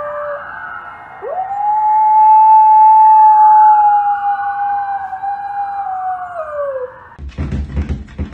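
A dog howling: one long howl that swoops up about a second in, holds steady for several seconds and sags in pitch before breaking off, after the tail of an earlier howl at the start. A fainter, higher wavering tone runs above it. Near the end it cuts to music with a beat.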